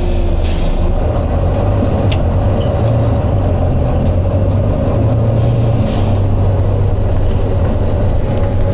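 Volvo B9TL bus's nine-litre diesel engine running with a steady low drone that steps up in pitch a couple of times. The bus's air system gives two brief hisses, one shortly after the start and a longer one about two-thirds of the way through.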